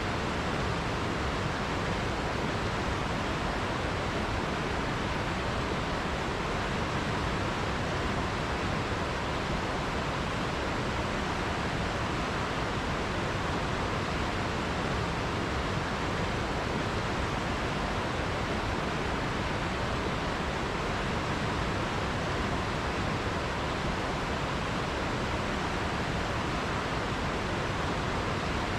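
River water rushing steadily, an unbroken even rush with no separate splashes or other sounds standing out.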